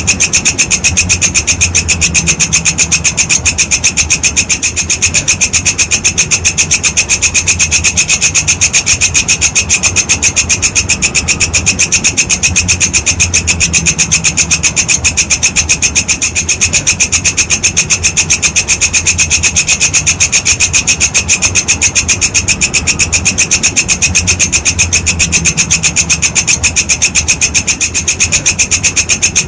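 Walang kecek, an Indonesian singing grasshopper, stridulating in a continuous, rapid, evenly pulsed rasping trill that keeps going without a break.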